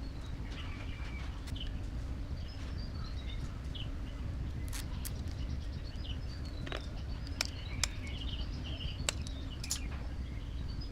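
Small bird calling: a short run of chirps falling in pitch, repeated several times. Under it runs a steady low rumble, and a few sharp clicks or taps come near the middle.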